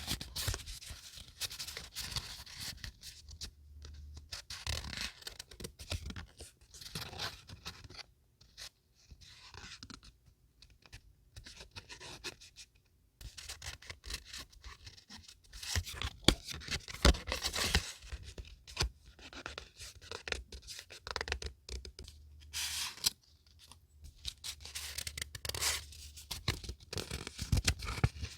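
Paper being handled for scrapbooking: irregular crisp rustling, tearing and scraping, in short bursts with brief pauses and a few sharp clicks.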